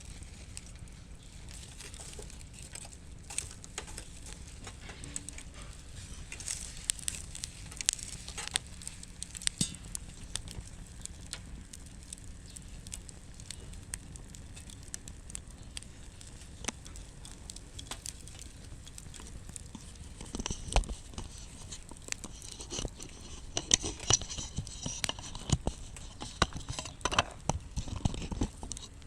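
Wood fire crackling in a fire pit: irregular small pops and snaps over a low steady rumble, turning busier with denser clicks and rustling in the last third.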